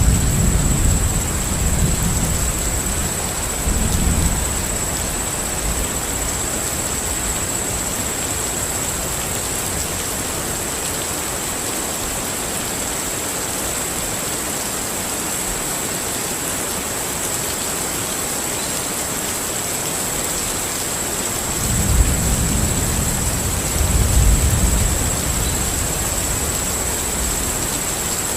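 Steady rain hiss with low rolling thunder rumbles in the first few seconds and again about 22 and 24 seconds in, and a thin steady high tone over it.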